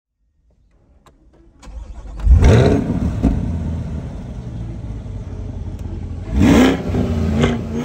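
Chevrolet C8 Corvette V8 starting about two seconds in with a loud flare of revs, settling to idle, then revved sharply once more about six and a half seconds in.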